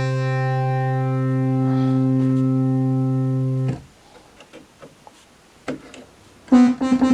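Prophet-6 analog synthesizer holding one low note with oscillators 1 and 2 and the sub-oscillator together, oscillator sync off, for about four seconds before it cuts off. Faint clicks follow, and near the end the synth starts again with quick repeated notes.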